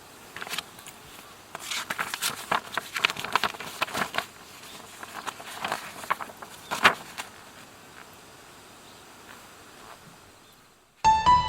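Irregular sharp crackles and clicks, thickest in the first few seconds and thinning out, over a faint hush. Piano music comes in suddenly near the end.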